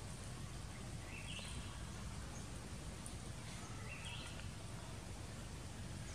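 Outdoor ambience with a steady low rumble, through which a bird gives a short rising call twice, about three seconds apart.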